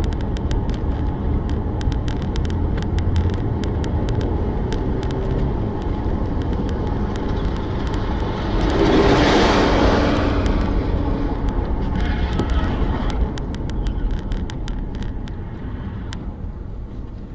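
Car driving: steady engine and road rumble with scattered sharp clicks, swelling louder for a couple of seconds about nine seconds in.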